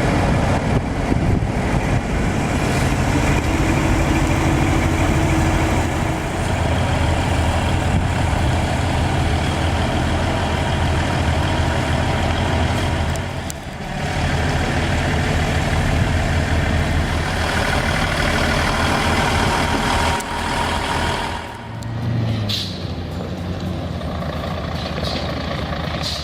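Heavy diesel truck engine running steadily, with two brief dips, one about halfway through and one a few seconds before the end.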